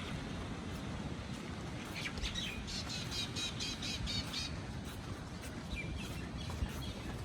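A bird calling: a quick run of high chirps, about five a second, starting about two seconds in and lasting two to three seconds, then a few more chirps near the end. Underneath is a steady low rush of wind and surf.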